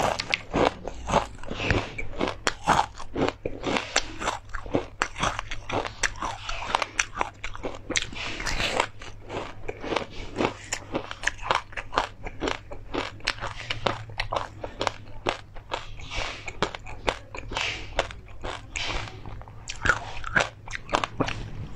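Close-miked crunching and chewing of a mouthful of crispy fried perilla, chili crisps and pumpkin seeds: rapid, irregular crackly crunches that keep going, with brief pauses between bites.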